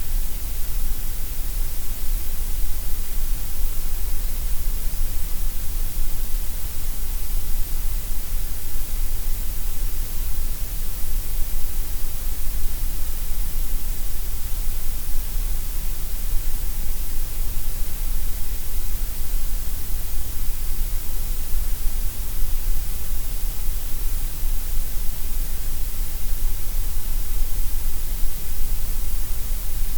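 Gray noise: a steady, unchanging synthetic hiss, heavier at the lowest and highest pitches and thinner in the middle.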